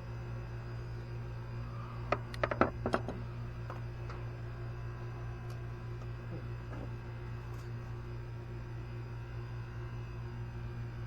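A steady low hum, with a quick cluster of sharp clicks and clinks about two to three seconds in, from tools or metal parts being handled during engine work.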